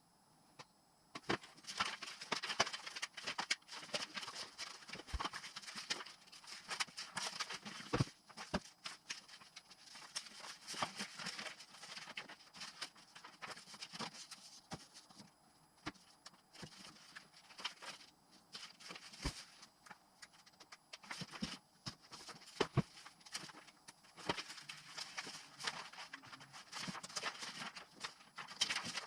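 Irregular clicks, taps and light knocks with a rustling hiss between them, the sound of parts and hand tools being handled during engine assembly. It thins out briefly around the middle and picks up again near the end.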